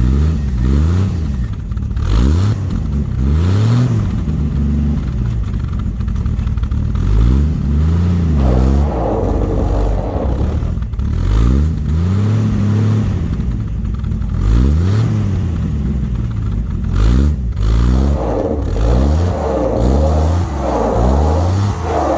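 Dodge D100's slant-six engine revving up and falling back again and again, the pitch rising and dropping every second or two, as the truck tries to pull free of ice frozen around its tyres.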